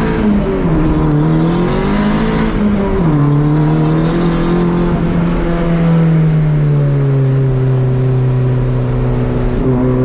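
Race car engine heard from inside the car on a track lap. The revs climb and fall over the first few seconds, then hold steady, easing slightly lower about seven seconds in.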